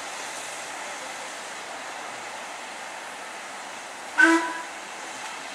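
Steam locomotive, a Stanier 8F, sounding one short whistle blast about four seconds in, over a steady hiss.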